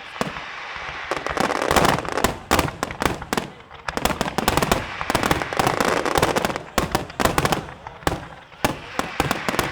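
Fireworks finale barrage: a dense, rapid run of bangs from bursting shells over continuous crackling, with no pause.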